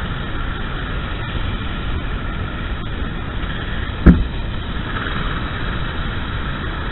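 Racing kart running, heard from on board as steady engine and wind noise on the microphone, with one sharp thump about four seconds in.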